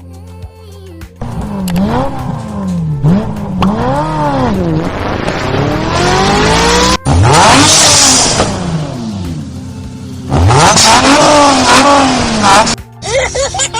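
Car engine sound effects revving up and down over and over in quick swells, with a stretch of loud hiss in the middle and steady background music underneath.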